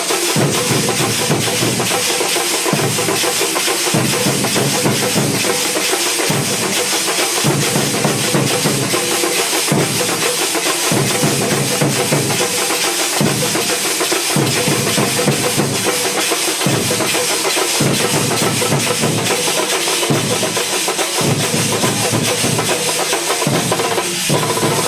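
Thambolam drum band playing loud, fast, continuous drumming, with a deep drum pattern that repeats about every second and a half under dense higher strokes.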